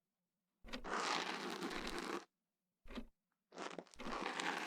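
Close-miked ear pick scratching inside an ear canal: a scratchy stroke of about a second and a half, a brief scrape, then another long stroke near the end.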